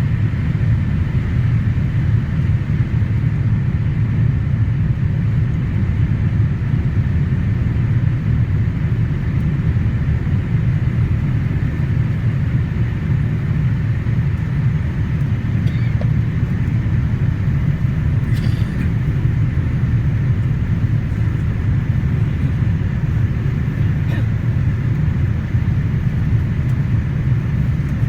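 Steady low rumble of a Boeing 787-8's engines and airflow heard inside the passenger cabin. A few faint clicks past the middle.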